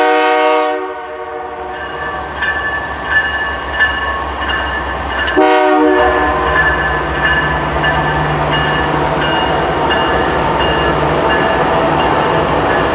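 A CN freight train's locomotive air horn sounds a multi-note chord that cuts off about a second in, then gives one short blast around five and a half seconds in. Between and after the horn, the train's diesel engines and rolling wheels make a steady rumble as it passes close by.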